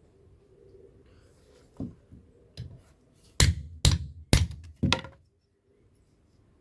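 Blacksmith's hammer striking metal on an anvil while forging a knife blade: a few light taps, then four heavy blows about half a second apart, stopping about five seconds in.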